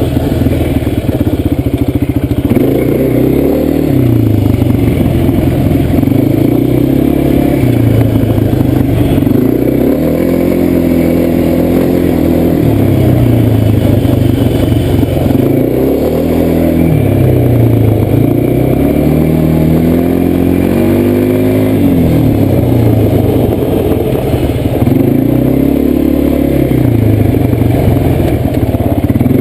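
Quad bike (ATV) engine running under a rider's throttle, its pitch rising and falling several times as it speeds up and eases off along a trail, with some rattling from the machine.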